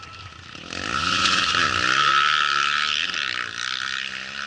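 Rally motorcycle engine passing at speed: it swells in from about a second in, is loudest around two seconds, and fades away toward the end, its pitch sweeping up and down with the throttle.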